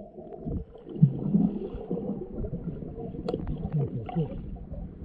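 Muffled underwater sound heard through a submerged GoPro: a low rumble with scattered small clicks, one sharper click about three seconds in.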